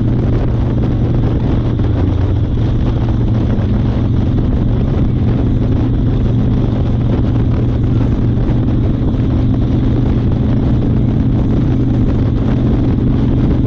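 1992 Harley-Davidson Fat Boy's Evolution V-twin engine running at a steady speed on the road, with wind rushing over the chest-mounted camera's microphone.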